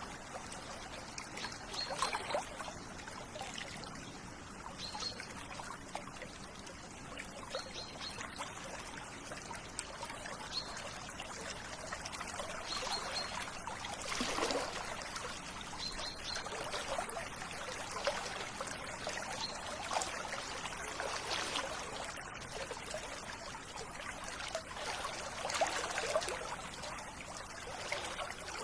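River water running and trickling over stones, with splashing swells every few seconds. Faint short bird chirps come in now and then.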